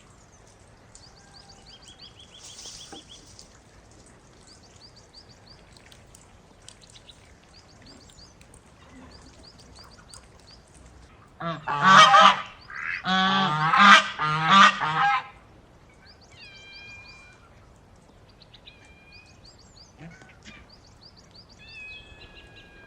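Geese honking loudly for about four seconds around the middle, a run of harsh repeated honks, with small birds chirping and calling faintly throughout.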